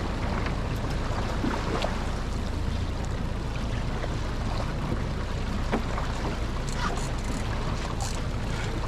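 Suzuki DF60A four-stroke outboard idling with a steady low hum under a wash of wind and water, with a few faint clicks.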